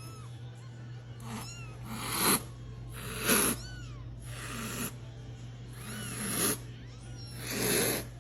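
A cat makes short squeaky calls that rise and fall, about half a dozen of them, alternating with breathy rasps that swell and break off. A steady low hum runs underneath.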